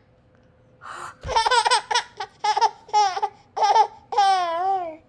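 Baby laughing: a breathy gasp about a second in, then a run of short, high-pitched laughs, ending in one longer wavering squeal.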